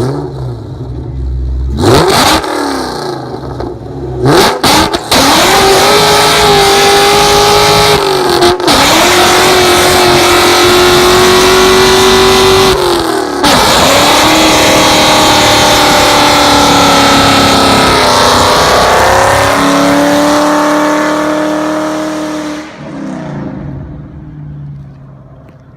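Muscle car engine doing a burnout: blipped a couple of times, then held at high revs for long stretches with a hiss and squeal of spinning tyres over it. The revs dip briefly twice and drop near the end as the sound fades.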